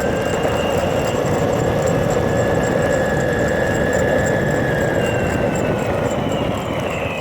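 A vehicle running past with a steady high whine over a rushing noise. Near the end the whine falls in pitch and the sound fades as it moves away.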